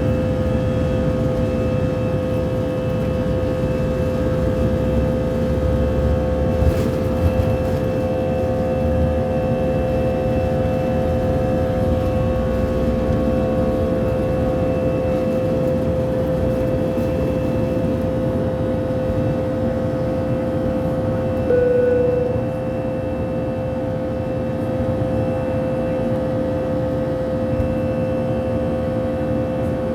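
Airbus A319 jet engines heard inside the cabin: a steady loud rumble with a constant whine. About two-thirds through a short extra tone sounds and the level then drops slightly.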